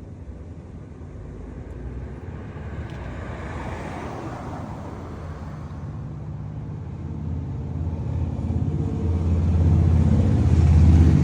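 A car passes on the street, then a motor vehicle's engine grows louder and runs close by with a steady low hum near the end.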